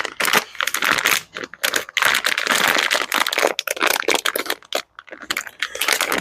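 Packaging being handled and unwrapped: dense, irregular crinkling and crackling as parts are dug out of their wrapping.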